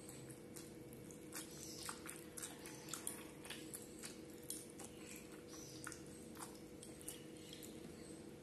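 Close-up mouth sounds of a person eating: chewing, with irregular wet smacks and clicks of the lips and tongue, and fingers being sucked near the end.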